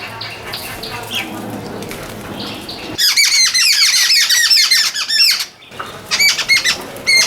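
A flock of wild birds chirping at a feeding spot. From about three seconds in there is a fast, dense run of loud, repeated high chirps, which breaks off briefly and starts again near the end.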